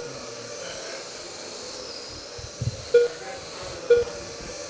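21.5-turn brushless electric motors of RC racing trucks whining as they speed round the track, the pitch sweeping up and down. Three short electronic beeps stand out: one at the start, one about three seconds in and one a second later.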